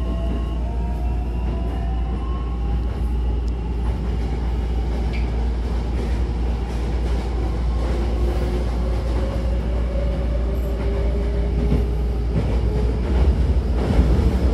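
Hankyu electric train running, heard from inside the car: a steady low rumble of wheels on the rails, with the traction motors' whine rising slowly in pitch as the train gathers speed. Near the end it gets a little louder, with some rattling clicks.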